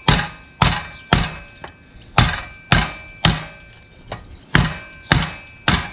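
Bowie knife chopping into a wooden 2x4: sharp, repeated blows about two a second, with a short pause a little past the middle.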